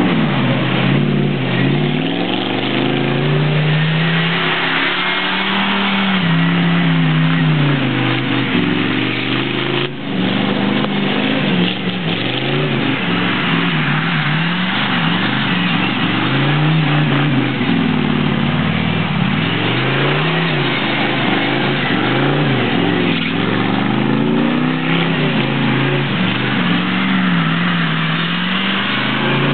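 Truck engine revving up and down over and over as it is driven hard, the engine pitch rising and falling every second or two over a constant layer of noise.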